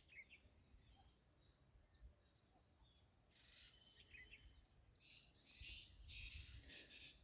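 Faint birdsong: a quick high trill about a second in, then several short bursts of chirping notes through the rest.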